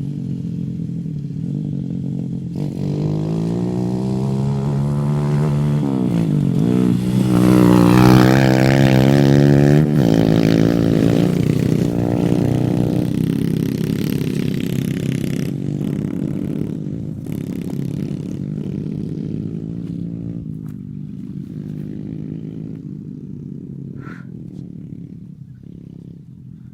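Pit bike engine revving up and dropping back several times as it rides the track. It grows loudest about eight to ten seconds in, then fades steadily as the bike moves away.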